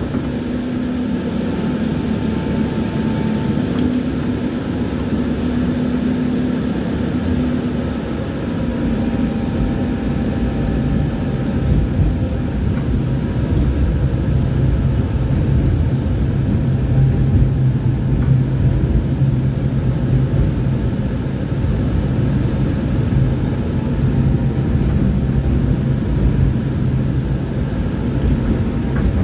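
A tram running along its route: a steady low rumble of the car on the rails with a humming motor tone. About a third of the way in the hum changes to a lower, stronger tone and the noise gets a little louder.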